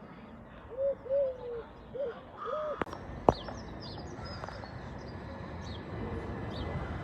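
Birds calling: four short, arched calls in the first three seconds, then higher chirps. One sharp click a little over three seconds in is the loudest moment.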